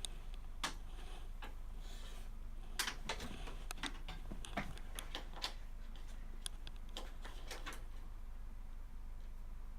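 Irregular light clicks and taps of hard plastic and metal computer parts being handled and fitted, about a dozen over the first eight seconds, then stopping; a steady low hum underneath.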